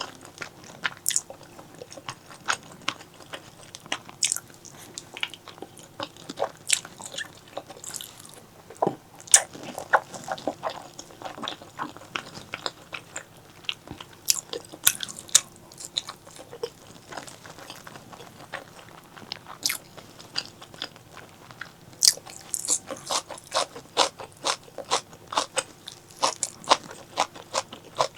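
A person chewing and biting spicy pork leg curry, making many sharp, irregular mouth clicks that come thicker toward the end.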